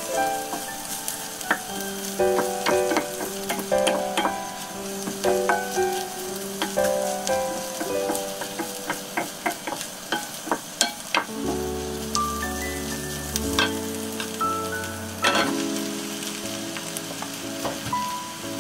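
Sliced onions sizzling as they sauté in butter in a saucepan, with a wooden spatula scraping and knocking against the pan as they are stirred. Soft background music with stepping melodic notes plays underneath.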